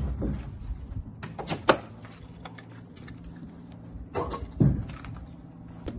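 A few sharp knocks and thuds, the loudest about a third of the way in and again near the two-thirds mark, over a steady low hum.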